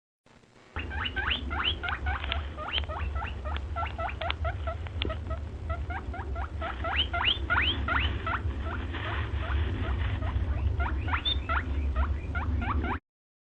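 A small animal squeaking in rapid series of short rising chirps, a few a second, over a low steady hum; it cuts off abruptly near the end.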